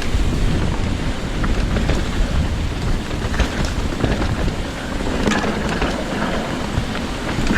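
Strong wind buffeting the microphone: a steady, loud rumble. Scattered sharp clicks and rattles run through it, typical of a mountain bike jolting over a rough trail.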